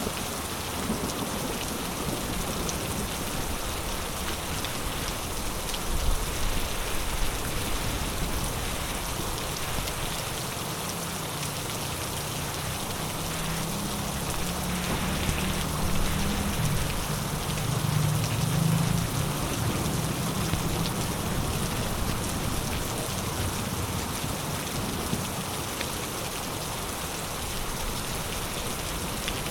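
Heavy rain falling steadily: a dense hiss of drops on surfaces. A low rumble of thunder rolls through the middle.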